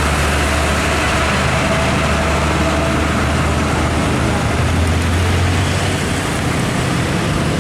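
Highway traffic passing, with a deep engine drone from a heavy vehicle. The drone is loudest about five seconds in and drops off about a second later.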